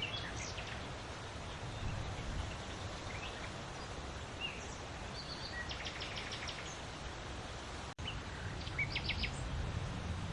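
Steady wind blowing with a low rumble, and small birds chirping over it, including a quick run of chirps about six seconds in and another near nine seconds. The sound cuts out for an instant about eight seconds in.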